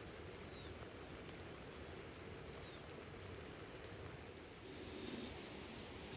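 Faint outdoor ambience: a steady low hiss with a few faint bird chirps, a short cluster of them about five seconds in.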